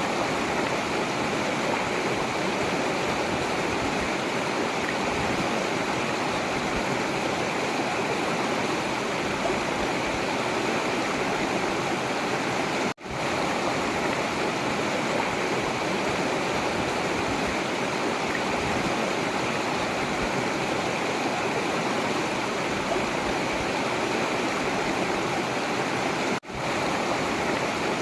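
Forest river water running steadily, an even rushing flow. It drops out for a split second twice, about halfway and near the end.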